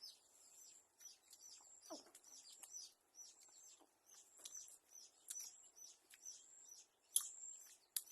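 Faint birds chirping, a quick run of short high chirps repeating over and over, with a few soft clicks in between.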